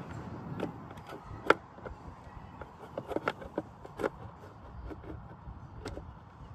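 Scattered sharp clicks and light knocks of small kit parts being handled and fitted together, the loudest a sharp click about a second and a half in.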